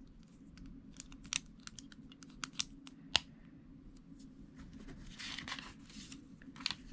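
Small plastic Lego bricks clicking and tapping as they are handled and pressed together: a handful of sharp, irregularly spaced clicks, then a soft rustle about five seconds in.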